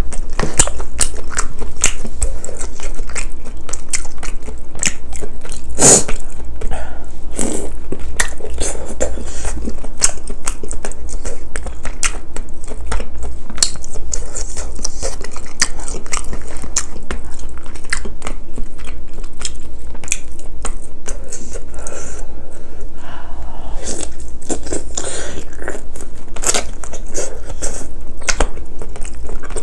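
Close-miked eating: chewing and biting on spicy braised chicken and glass noodles, with many quick wet clicks and smacks, over a steady low hum.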